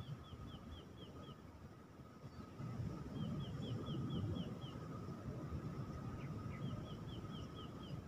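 A bird calling in runs of about seven short, high, quick notes, three runs spaced a few seconds apart, over a low rumble and a faint steady tone.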